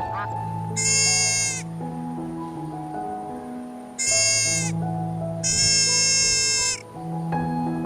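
An animal bleating in three loud calls: two short ones, then a longer one near the end. Gentle background music plays under them.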